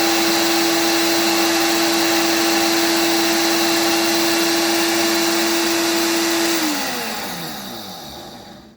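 Ninja Pro blender base driving its coffee and spice grinder attachment, running steadily with a strong whine while grinding coffee beans. Near the end it is switched off and the whine falls in pitch as the blade spins down and fades out.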